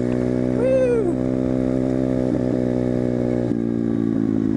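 Motorcycle engine running at a steady, held throttle while riding, easing off about three and a half seconds in.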